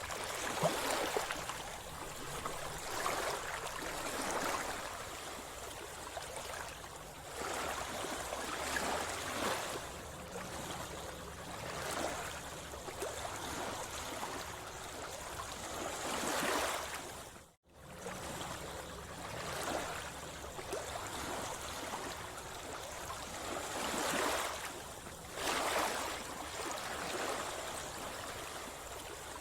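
Sea water sloshing and splashing close by, swelling in surges every few seconds. The sound cuts out for an instant just past the middle.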